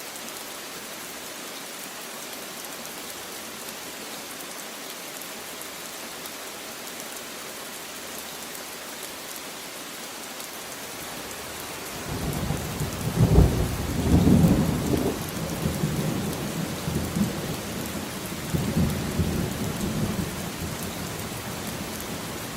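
Steady hiss of rain. About halfway through, a low rumble of thunder comes in, loudest just after it starts, and rolls on in several swells.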